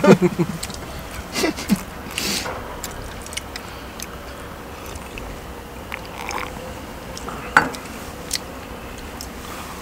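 People eating: chewing, with scattered light clicks and short bursts of noise from the food and tableware.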